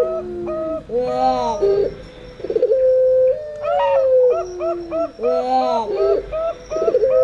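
Domestic doves cooing: a puter pelung's long drawn-out coo held on one pitch and falling in steps, alternating with the rolling, trilled coos of perkutut (zebra doves). The calls come round about every four and a half seconds.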